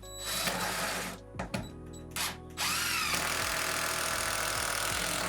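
Power drill driving screws into wood: a short run, two brief blips, then a long steady run of about two and a half seconds whose pitch bends briefly as it gets going.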